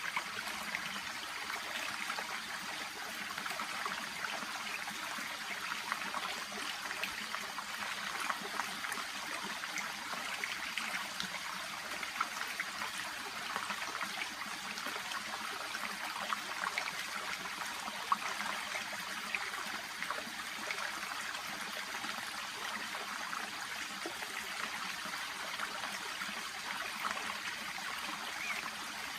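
Shallow stream babbling steadily: a continuous trickle made up of many small, quick splashes, with no single sound standing out.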